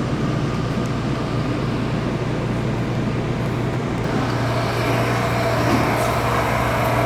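New York City subway train running, heard from inside the car: a steady hum and rumble of motors and wheels that grows a little louder about four seconds in.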